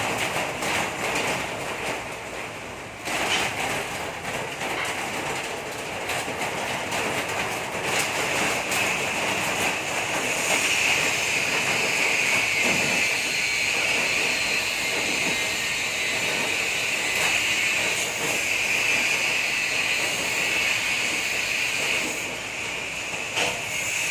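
Pump engine running steadily with a continuous hiss that grows stronger about ten seconds in.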